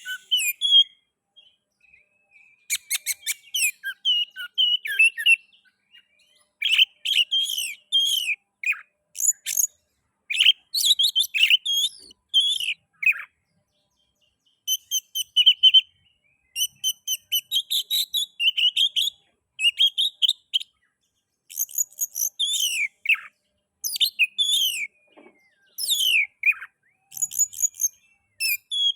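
Oriental magpie-robin singing a long, varied song: whistled phrases mixed with rapid scratchy clicks, delivered in bursts of a second or two with short pauses between.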